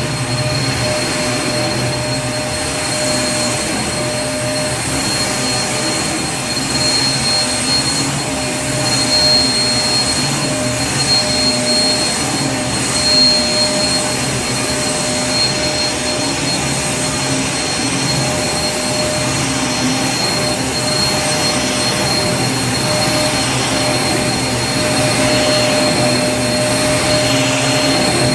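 Vacuum cleaner motor running steadily: an even rushing noise with a constant high whine over it.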